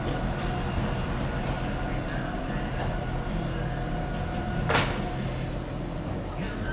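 BMW F800GS parallel-twin engine running steadily under way, with road and wind noise. A brief, loud sharp noise sounds once, nearly five seconds in.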